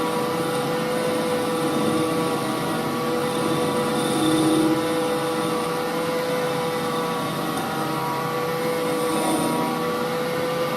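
Holbrook C8 toolroom lathe running steadily with a constant whine, while the tool is fed back and forth along the work in a light turning cut.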